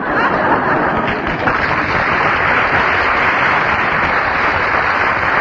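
Audience applauding, a steady dense clapping that starts abruptly.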